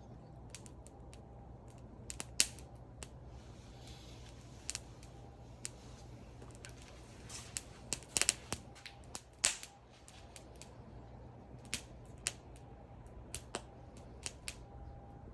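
Wood fire crackling: irregular sharp pops and snaps over a faint hiss, with a cluster of louder pops about eight seconds in.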